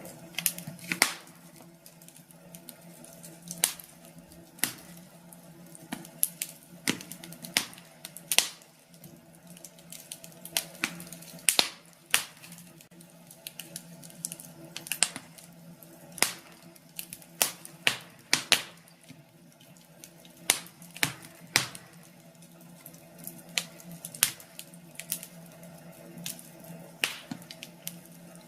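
Wood fire in a fireplace crackling, with irregular sharp pops and snaps coming several a second at times, over a faint steady hum.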